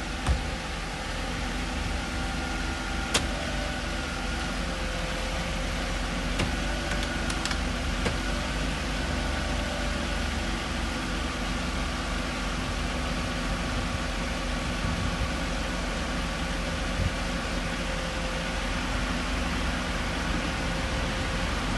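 1991 Mercedes-Benz 300SL's straight-six engine idling steadily, with a few sharp clicks in the first several seconds.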